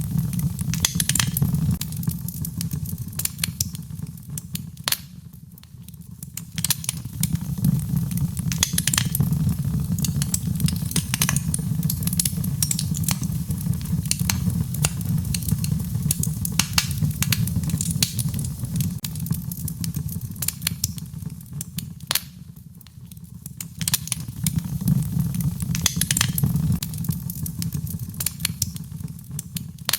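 Wood fire burning in a fireplace: a steady low rumble of flames under frequent sharp crackles and pops, the rumble easing and swelling a few times.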